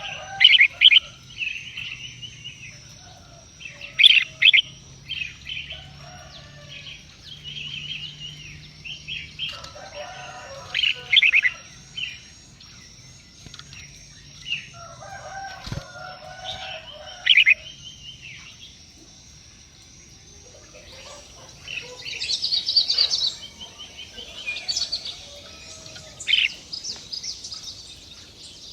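Birds chirping: separate loud, sharp chirps every few seconds, then a quicker run of chattering calls about three quarters of the way through, over a faint steady high tone.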